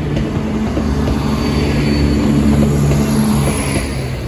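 Diesel multiple unit passenger train passing close by over a level crossing, its underfloor engine droning steadily.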